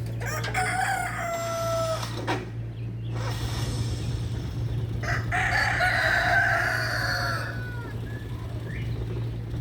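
A rooster crowing twice: a short crow near the start and a longer one about five seconds in, over a steady low hum.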